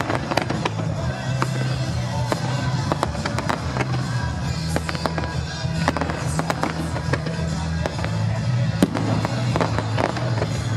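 Fireworks display: many sharp bangs and crackles going off in quick succession, over music with a steady low bass line.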